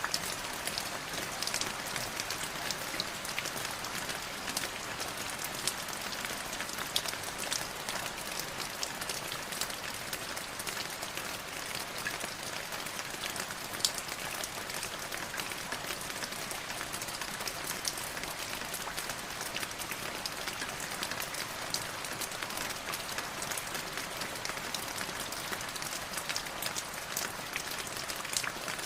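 Light drizzle falling steadily: a fine, even patter of rain with many small individual drop ticks scattered through it.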